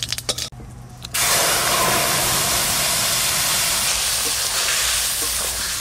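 A few clicks of a metal spatula in a kadai, then about a second in, a sudden loud sizzle as water lily stems, potatoes and fried fish head go into hot oil, hissing steadily.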